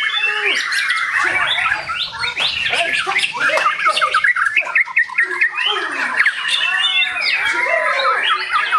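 White-rumped shama singing a fast, varied song of quick sweeping whistles and harsh chattering notes, with no break.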